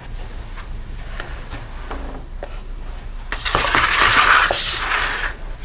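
Small parts being handled: a few light clicks and taps, then about two seconds of loud rustling, crunching noise starting a little past halfway.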